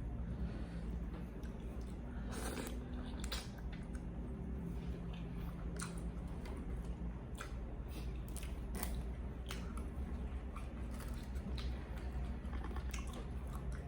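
A person chewing and biting food close to the microphone, with irregular short sharp mouth clicks, over a steady low hum.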